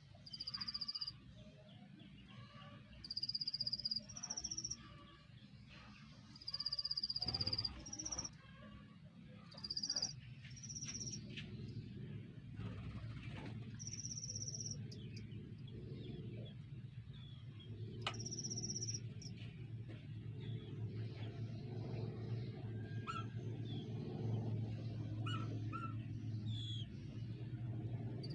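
A bird giving a series of high, steady whistled calls, each about half a second to a second long, most of them in the first half and one more near the end. A low rumbling noise runs underneath and grows from about halfway through.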